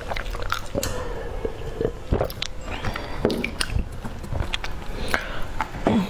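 Close-miked eating sounds: gulps from a drink, then wet chewing with many small scattered mouth clicks and smacks.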